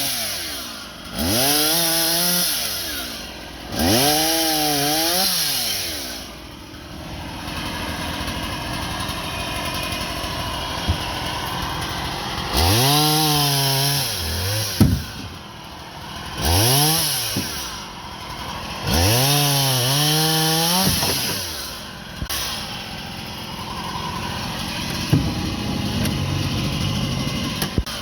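Husqvarna 24-inch chainsaw revved up and back down five times, each rise lasting a second or two, running at a lower speed between revs.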